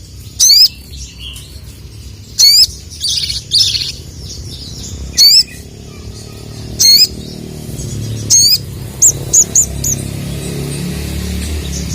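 Sogon (sogok ontong, the ruby-cheeked sunbird) calling: loud, sharp whistled 'cuit' notes repeated every couple of seconds, with a brief twitter early on and a quick run of four short notes about three-quarters of the way through. A low rumble rises under the calls in the second half.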